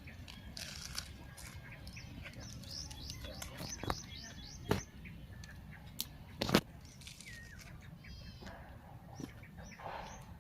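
Small birds chirping in runs of quick, falling notes, with a fast trill near the end, over a few sharp clicks or knocks, the loudest about six and a half seconds in.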